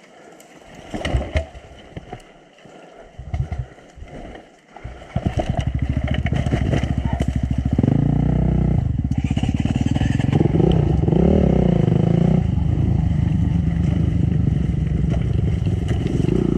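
Honda CRF250 single-cylinder four-stroke dirt bike engine. For the first few seconds there are only scattered knocks and clatter. About five seconds in, the engine begins running loudly and steadily, and its revs rise and fall between about eight and twelve seconds in.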